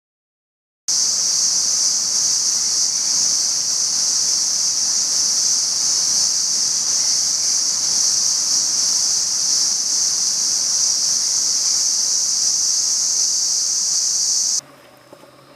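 A loud, steady high-pitched hiss or drone that starts abruptly about a second in and cuts off sharply near the end.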